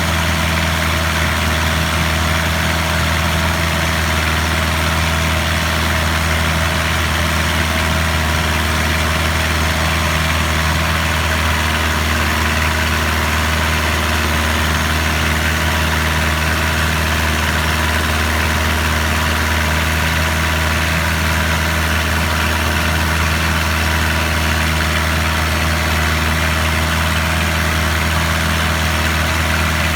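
Boat engine running steadily, a constant low drone that does not change in pitch or level.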